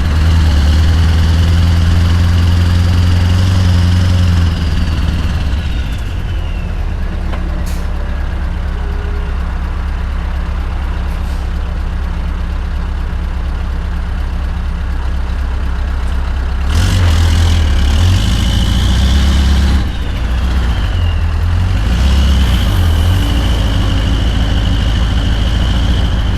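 Scania R580's 16-litre V8 diesel with a straight-piped exhaust running while the truck drives. Its note drops about four seconds in, with a high whistle gliding down soon after. It grows louder for about three seconds later on.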